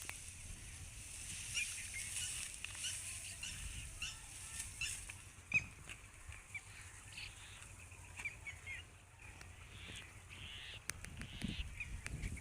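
Birds calling in many short, high chirps, scattered irregularly, over a steady high hiss.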